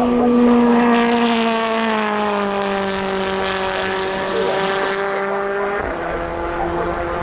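BTCC touring cars' turbocharged four-cylinder engines running at full throttle past the trackside. The engine note drops in pitch about two seconds in as they go by, then settles, with another shift near the end.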